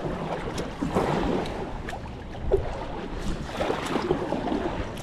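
Whitewater rapids rushing and splashing around a kayak, swelling and easing in surges.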